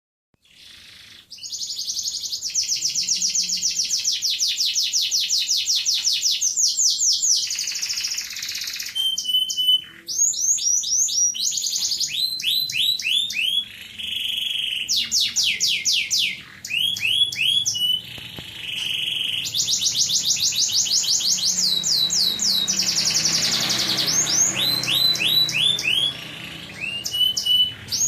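Domestic canary singing continuously: long, fast trills of rapidly repeated notes, mixed with short steady whistled notes and broken by a few brief pauses.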